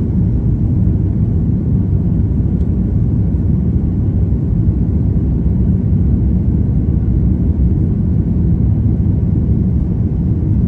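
Steady low rumble of an airliner on departure, engines and airflow running without change.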